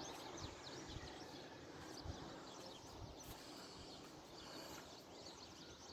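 Faint outdoor background with scattered, high-pitched chirps of small birds.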